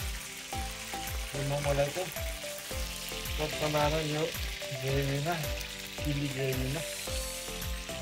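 Momos pan-frying in oil, a steady sizzle, under background music with singing and a steady beat.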